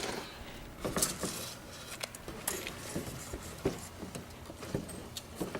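Scattered light knocks and clinks of metal pans being handled and set down, about a dozen irregular strikes.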